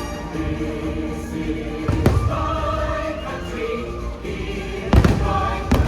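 Choral music from a fireworks show soundtrack, with fireworks bursts booming three times: about two seconds in, then twice close together near the end.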